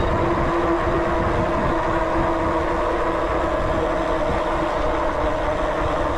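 A vehicle travelling steadily: continuous road and engine rumble with a steady hum and no change in speed.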